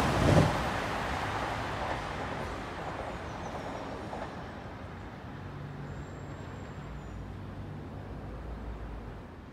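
Electric multiple-unit passenger train rushing past on the tracks, its rumble falling away steadily as the last coach clears and the train recedes. A faint low hum of distant rail and traffic noise is left behind.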